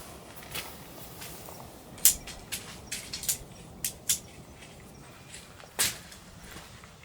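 A string of sharp, short knocks and clacks at uneven spacing, about seven in all, the loudest about two seconds in.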